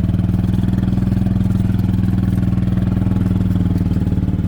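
A small vehicle's engine running steadily under way, with an even, fast pulsing beat.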